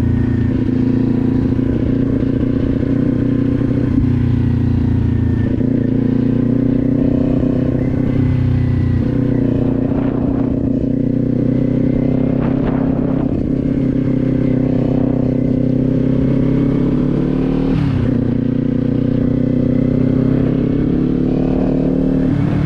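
Kawasaki Z400 parallel-twin engine running at a fairly steady cruising pitch while the motorcycle is ridden. The engine briefly dips once, about three-quarters of the way through.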